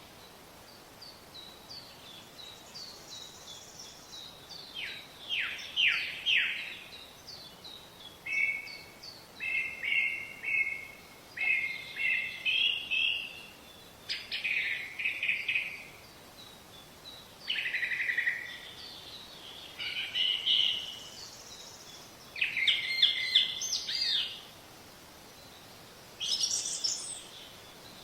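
Songbirds singing in short phrases of quick chirps and falling whistled notes, a second or two each with brief pauses between, over a faint steady background hiss.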